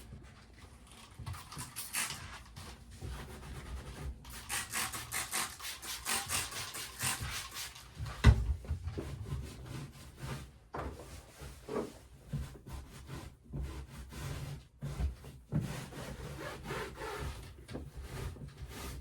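Irregular rubbing and scraping of upholstery material being handled, with scattered knocks and one sharp thump about eight seconds in.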